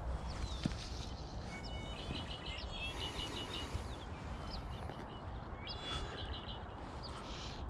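Small birds chirping: two quick runs of short, high, evenly repeated notes, about two seconds in and again about six seconds in, with scattered single chirps between, over a steady low background rumble.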